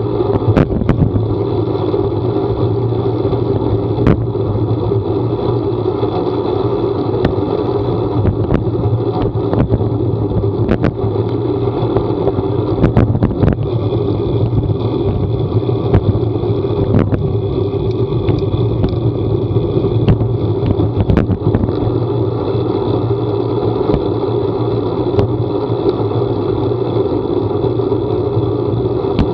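A vehicle in motion: a steady low drone with scattered short ticks and knocks throughout.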